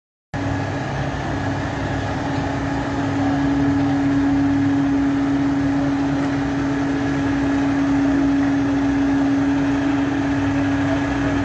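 An engine running steadily at idle: a constant hum with one steady tone over a low rumble.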